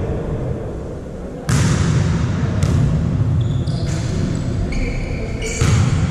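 A volleyball struck hard three times, with short squeaks of sneakers on the court between the second and third hits, over a steady low rumble of the hall.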